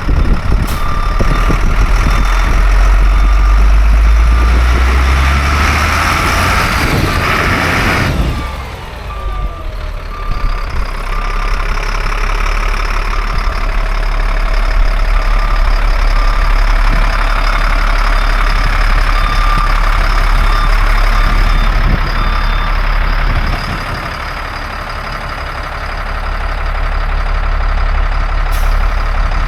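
Diesel engine of a 1997 Freightliner FL70 dump truck running under load, with its backup alarm beeping steadily about once a second. The engine rises over the first several seconds and then drops off sharply about eight seconds in, then settles to a steadier run.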